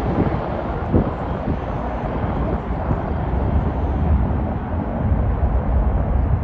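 Jet airliner engines after takeoff: a steady low rumble, with the higher hiss of the engines fading away.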